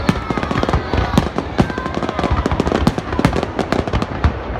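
Fireworks going off in quick succession: a dense, irregular crackle of sharp bangs and pops, several every second, with a faint falling whistle fading out near the start.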